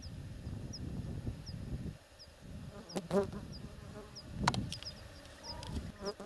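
Meadow ambience: a small bird repeats a short, high, rising chirp about every two-thirds of a second, over a low buzz that stops about two seconds in. Two sharp knocks, about three and four and a half seconds in, are the loudest sounds.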